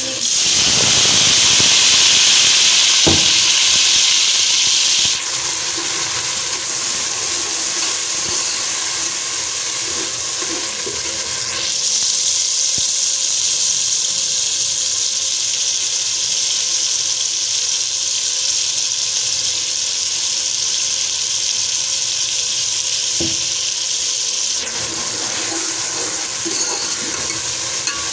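Onions, ginger-garlic paste and tomatoes sizzling and frying in hot oil in an aluminium pot. A loud burst of sizzling comes over the first five seconds as the wet paste goes into the hot oil, then a steady frying hiss that grows stronger again from about twelve to about twenty-four seconds in. A couple of light knocks come from the stirring spoon.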